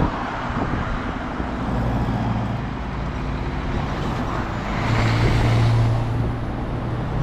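Road traffic: motor vehicle engines running with a steady low hum. One engine swells louder about five seconds in and eases off a second later.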